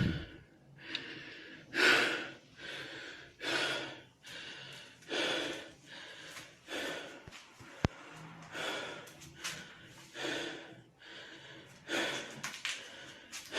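Heavy, rhythmic breathing, noisy breaths in and out about every 0.8 seconds, with a single sharp click a little past halfway.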